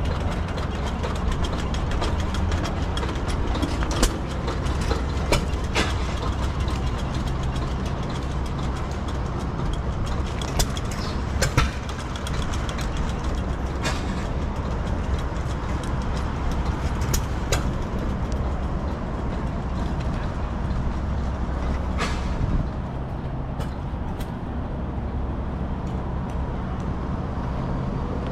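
An engine running steadily at idle, with scattered sharp clicks and knocks on top.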